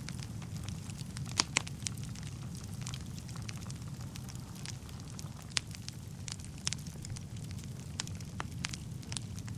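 Wood fire burning in a fireplace: a steady low rumble of the flames with irregular sharp crackles and pops of the burning logs, the loudest pops about a second and a half in and near the middle.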